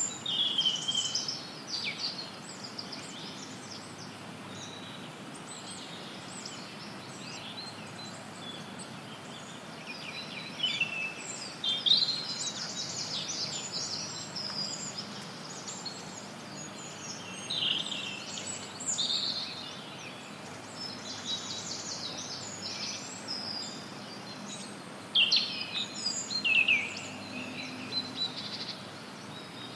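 Forest birds chirping and trilling in scattered bursts over a steady hiss of added white noise.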